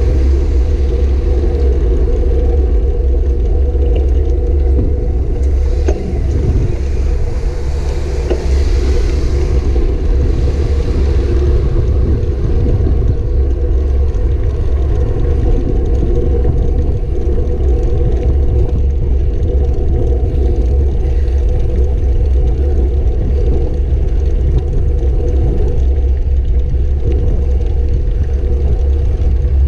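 Steady, loud wind rumble on the microphone of a camera riding along on a moving bicycle, mixed with road noise. A rushing hiss swells and fades from about seven to eleven seconds in.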